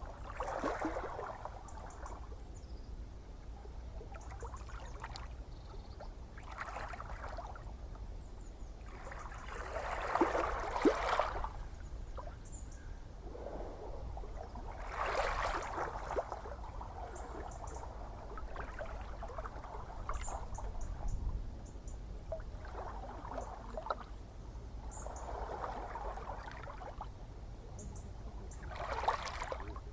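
Gentle ocean waves washing and lapping on the shore, one soft wash every few seconds over a steady low rumble, the loudest about ten seconds in. Faint high ticks sound now and then.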